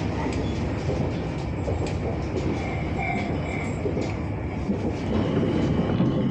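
Interior of a moving passenger train: a steady running rumble with occasional faint clicks of the wheels over the rails, and a brief faint high tone about three seconds in.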